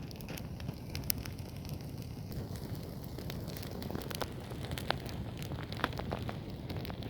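Bonfire burning: a steady low noise from the flames with scattered sharp crackles and pops.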